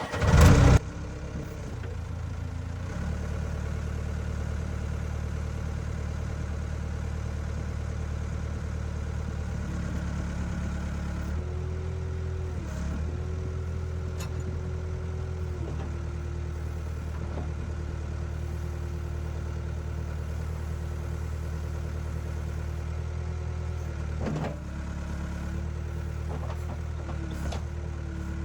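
A heavy equipment engine running steadily, its speed and load shifting several times, with a steady whine over it. A loud burst comes in the first second.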